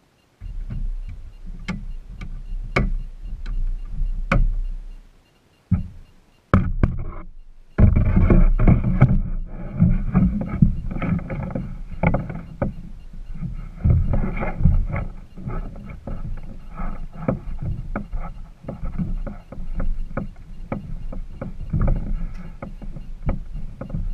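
Kayak on the water: sloshing and splashing with many irregular sharp knocks over a constant low rumble on the microphone. The sound drops out briefly about five seconds in and again about seven seconds in.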